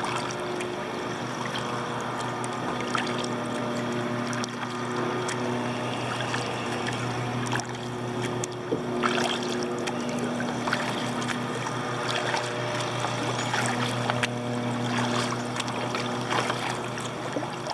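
Kayak paddling on open water: a steady wash of water noise with scattered small splashes and drips from the paddle strokes, over a steady low hum.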